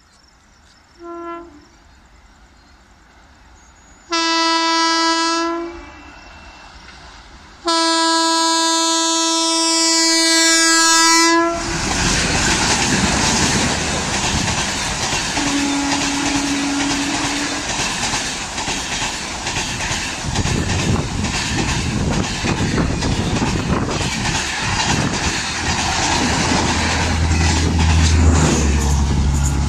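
Passenger train with LHB coaches approaching and running through a station at speed. The locomotive's horn sounds three times: a short faint toot, a blast of about two seconds, then a long blast of about four seconds. The loud rush and wheel clatter of the coaches going by follows, with a deeper hum near the end.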